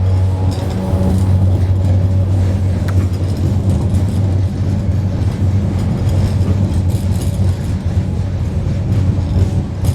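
Railway bridge droning under a passing train: a deep, steady hum from the bridge's constant vibration over a dense rumble of the train on the rails, heard from beneath the bridge deck.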